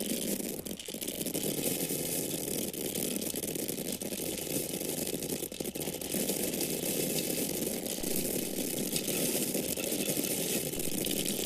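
Grains of corn pouring and falling in a steady stream, a dense patter of many small hard kernels hitting and rattling.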